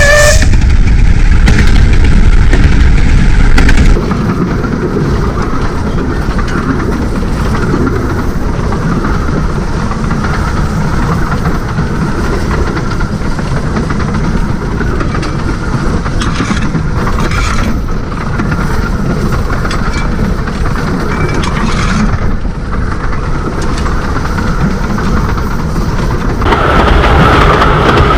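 A 15-inch gauge miniature railway train heard on board while running: a steady rumble of wheels with clickety-clack over the rail joints. The noise drops a little about four seconds in and grows louder again near the end.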